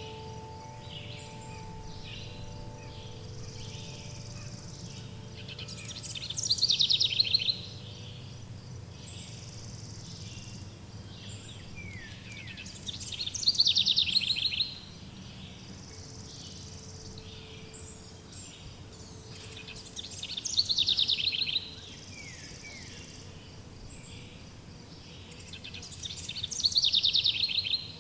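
Songbird repeating a loud trilled song phrase about a second and a half long that falls in pitch, four times at roughly seven-second intervals, over fainter bird chirps and a steady low hum. Ringing chime tones fade out over the first few seconds.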